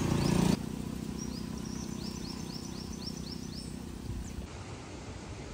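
A bird gives a quick run of about ten short, high, falling chirps over the low hum of a motor. The hum drops out about four and a half seconds in. A louder engine-like hum cuts off abruptly about half a second in.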